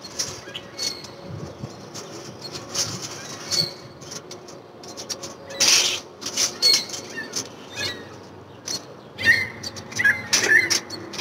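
Birds calling outdoors, with a run of short chirps starting about nine seconds in, over a few brief scuffs and rustles, the loudest about six seconds in.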